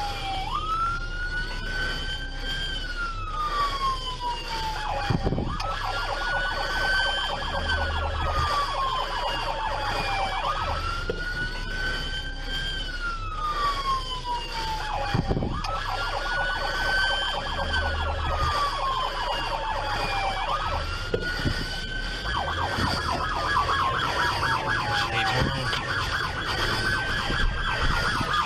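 Police car siren wailing, each cycle a quick rise in pitch followed by a slow fall, repeating about every five seconds.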